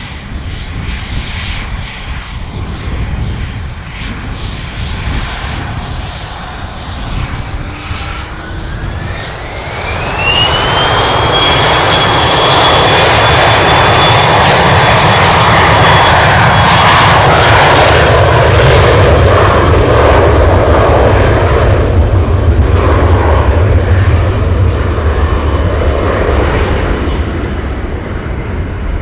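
Aircraft engines spooling up: a whine rises in pitch over about three seconds, then holds steady over a loud roar that sets in about ten seconds in and eases off over the last several seconds.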